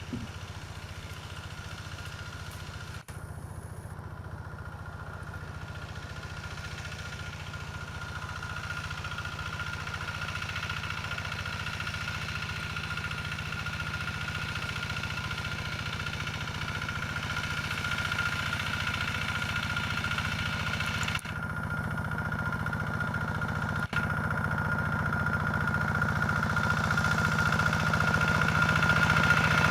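Single-cylinder diesel engine of a Quick G1000 two-wheel hand tractor running steadily under ploughing load, with a steady high whine over the engine note. It gets gradually louder.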